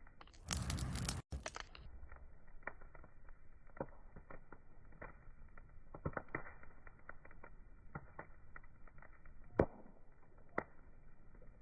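Wood fire crackling, with scattered small pops and snaps and two sharper pops near the end. About half a second in, a louder burst of hissing noise lasts about a second, breaking off suddenly for an instant.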